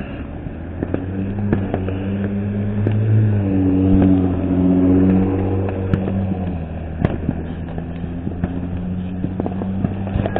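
A motor vehicle's engine running close by, swelling and shifting in pitch about three to five seconds in, then holding steady. A few sharp firecracker pops go off in the background.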